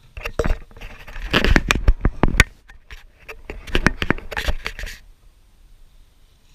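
Handling noise: a rapid run of clicks, knocks and scrapes in two clusters, the busiest from about one to two and a half seconds in and again around four seconds in, stopping about five seconds in.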